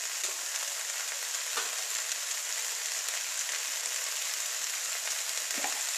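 Mixed vegetables and spice paste frying in a karai (wok) over medium heat: a steady sizzle with fine crackling.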